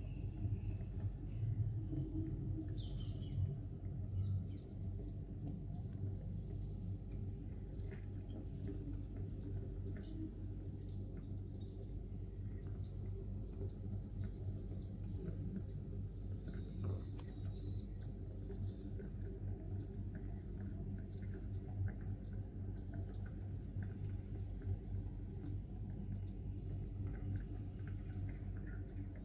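Sparrows chirping, many short high chirps scattered throughout, over a steady low hum.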